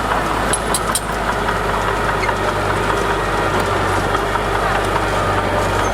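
Heavy diesel engine of earthmoving machinery running steadily, with a few short metallic clicks about a second in.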